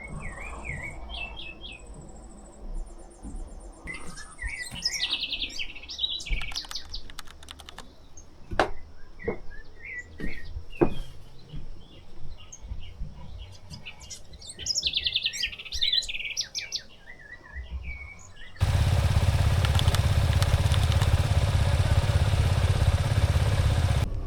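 Small birds chirping and trilling in quick repeated calls, with a few sharp clicks among them. About three quarters of the way in, loud music cuts in abruptly over them.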